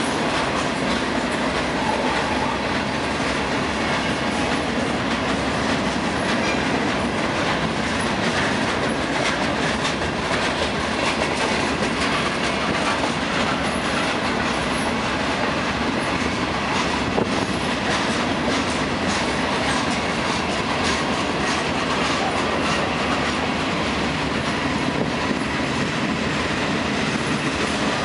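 Freight train cars rolling steadily past at close range: a continuous rumble and clatter of steel wheels on the rails, with repeated clicks as the wheels pass over the track.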